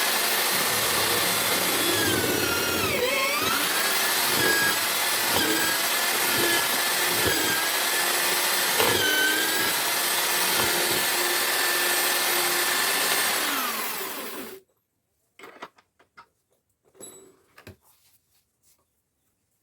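Homemade drill-based wood mortiser running at high speed, its motor pitch dipping several times as the bit bites into the wood. It stops abruptly about fourteen seconds in, and a few faint knocks follow.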